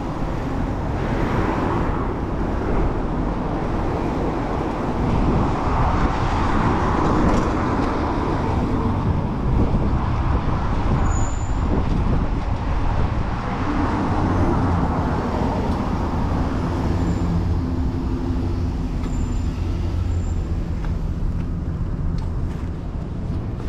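City street traffic: cars and other vehicles passing close by, with a steady low rumble throughout and swells as vehicles go past.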